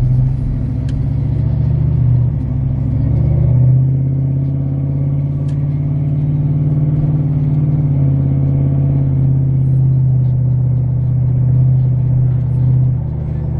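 Pickup truck engine and exhaust running while driving, a loud steady low drone heard from inside the cab; its note shifts about four seconds in and again about eight seconds in.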